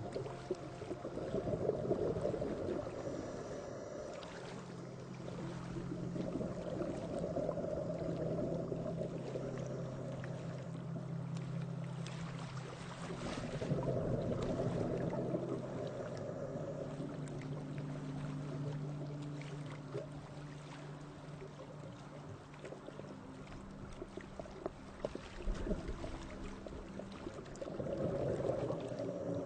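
Sea waves washing in and out over a pebble beach, each surge swelling every six to seven seconds. A steady low hum runs underneath for much of the time.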